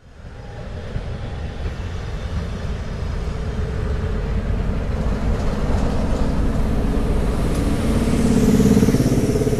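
A train running past on the line, a loud steady rumble with engine tones that builds louder toward the end.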